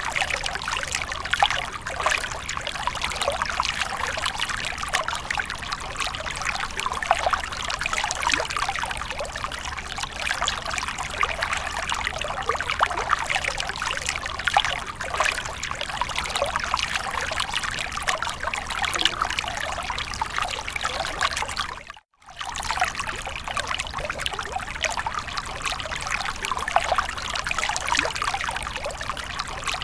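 Running water splashing and trickling steadily, a continuous dense patter of small splashes. It briefly cuts out about two-thirds of the way through, then resumes unchanged.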